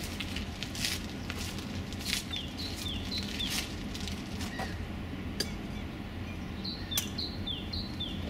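A small bird calling in short runs of three or four high, falling chirps. A few sharp clicks and knocks come from the metal outboard motor stand as it is wheeled and handled, over a steady low background hum.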